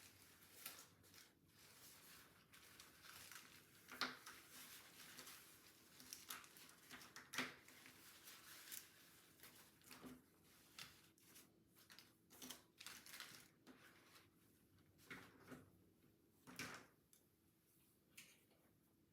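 Quiet, irregular snips, clicks and rustles of hair being cut and handled during a haircut, over a faint steady hum.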